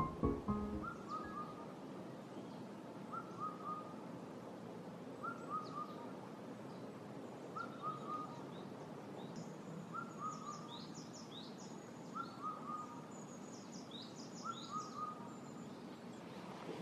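Wild birds singing: one bird repeats a short call of a few quick notes about every two seconds, and another adds high thin chirps in the middle and near the end, over a faint background hush.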